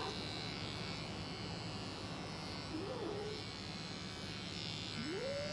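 Electric hair clippers running with a steady buzz while shaving a cat. The cat gives a short cry about three seconds in and a rising meow near the end.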